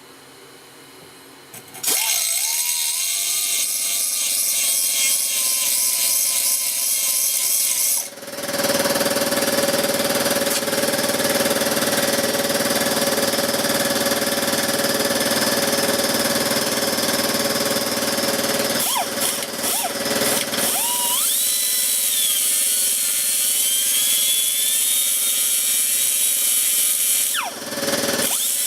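Electric grinder spinning up and grinding down fresh weld on a steel ATV swing arm. It starts about two seconds in, eases off briefly, then runs steadily, and drops out for a moment near the end.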